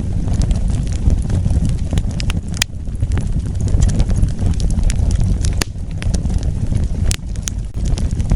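Wood fire burning with a steady low rumble and scattered sharp crackles and pops, a few of them louder snaps.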